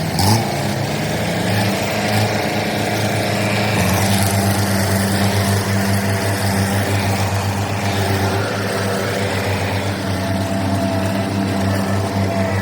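Tractor's diesel engine running at a steady speed, a constant low hum that firms up slightly about four seconds in.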